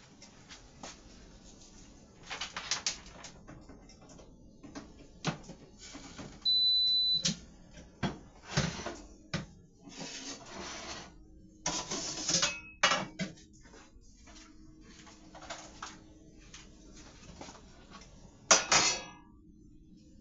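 Kitchen handling noises: irregular clatter, clicks and scrapes of dishes, utensils and containers. A short high beep comes about six and a half seconds in, and a low steady hum starts about twelve seconds in and carries on.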